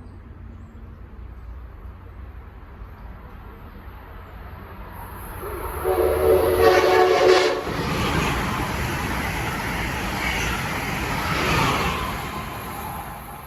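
A train horn sounds one blast of about a second and a half, about six seconds in. The train then runs past with a broad rumble of wheels on rail that swells again near the end and fades.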